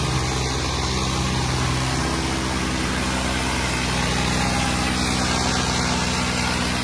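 Eicher 557 tractor's diesel engine running steadily at a constant speed.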